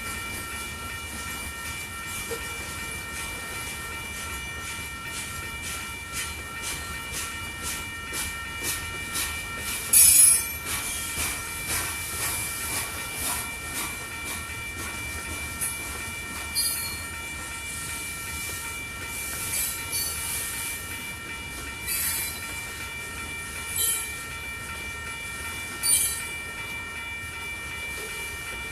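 Freight train cars rolling past, with a steady high-pitched squeal from the wheels. Regular clicking of wheels over rail joints, and a few louder sharp screeches, the loudest about ten seconds in.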